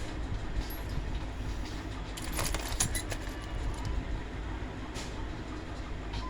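Table fan's electric motor running with a steady low hum, with a few light metallic clinks about two to three seconds in and again near five seconds.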